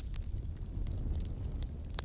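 Fire crackling: scattered sharp snaps and pops, several a second, over a steady low rumble of the flames.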